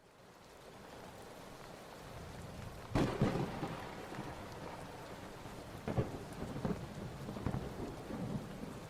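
Steady rain fading in over the first couple of seconds, with sharp cracks of thunder about three and six seconds in and smaller claps after.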